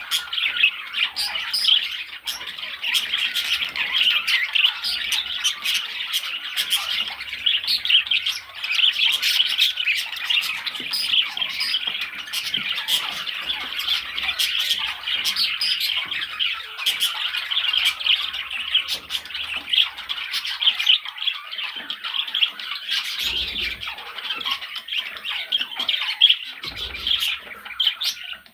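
Budgerigars chattering, warbling and squawking without a break, a dense stream of short high-pitched calls.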